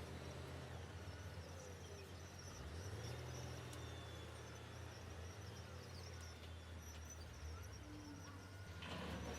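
Diesel engines of heavy earthmoving machinery running with a low, steady drone that shifts in pitch about two and a half seconds in and gets a little louder and rougher near the end.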